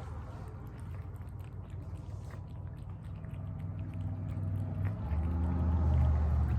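Cats chewing and lapping up tuna, with many small wet clicks. A low hum grows louder near the end.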